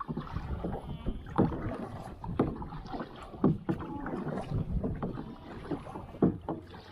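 Kayak paddles dipping into the water, with irregular splashes and knocks from the paddle strokes.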